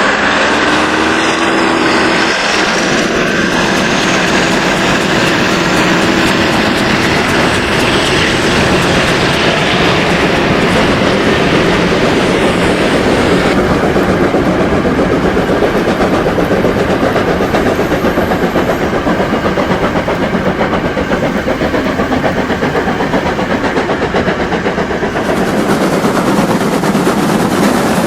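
Märklin model steam locomotives of classes BR 50 and BR 52 running with their sound on, hauling a long coke train whose wagons clatter over the track. The sound is steady and loud, and changes abruptly about 13 seconds in and again near the end.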